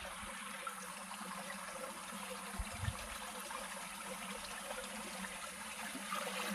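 Water trickling steadily in a shallow ditch, with a brief low thump about two and a half seconds in.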